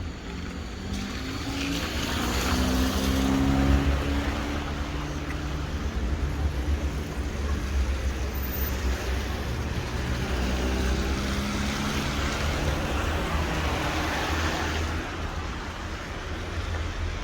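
Cars passing close by on a rain-wet road: engine hum rising and falling with tyre hiss, loudest a few seconds in and again toward the end, over a steady low traffic rumble.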